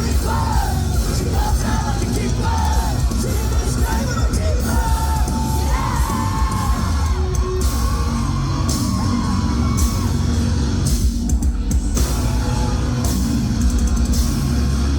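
Rock band playing live and loud, heavy bass and drums with a vocal line over the top, heard through the room's PA.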